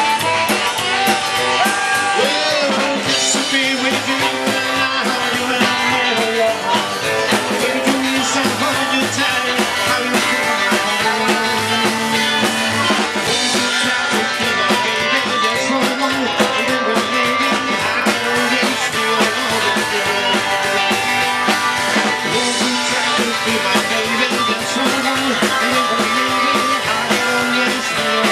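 Rock and roll band playing live, an instrumental passage with guitar and drum kit.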